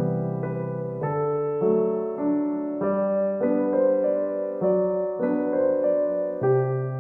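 Background piano music: a gentle solo piano piece, notes changing about every half second over steady bass notes.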